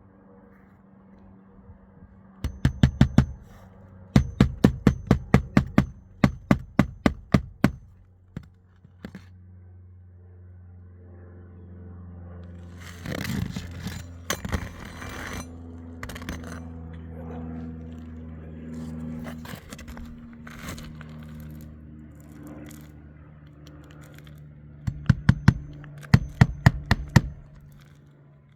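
Hammer driving roofing nails into asphalt shingles: quick runs of sharp strikes, about four a second, in several bursts near the start and again near the end. In between comes a stretch of scraping over a steady low hum.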